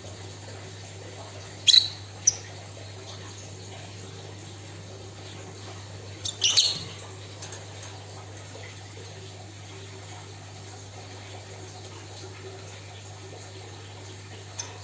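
Caged pet songbird giving short, high chirps in two brief bursts, about two seconds in and again about six and a half seconds in, over a steady low background hum.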